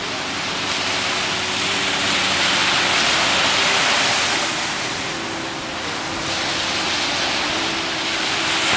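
Rushing water, like surf or water washing past, as a steady hiss that swells and eases twice.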